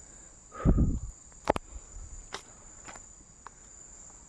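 Crickets chirring steadily in a high, even drone. About two-thirds of a second in comes a loud low thump, followed by a few sharp clicks.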